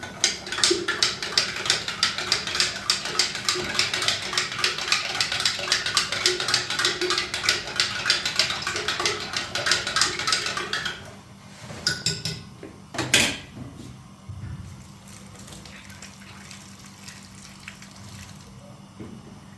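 Rapid, rhythmic scraping and clinking of a utensil against a dish for about eleven seconds, then a few clinks and one loud knock.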